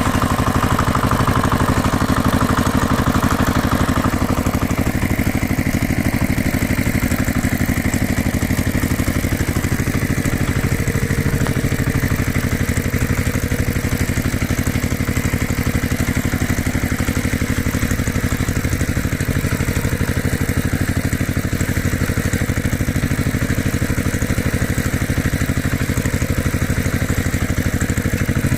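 An engine idling steadily with a rapid, even chugging pulse.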